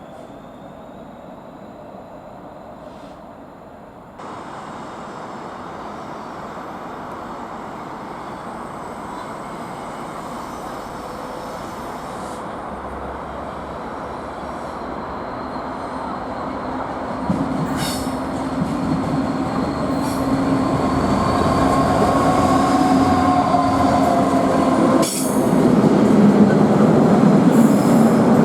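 A train approaching along the line, getting steadily louder, with a jump in level about four seconds in. Steady droning tones come in over the rumble from about two-thirds of the way through as it draws close.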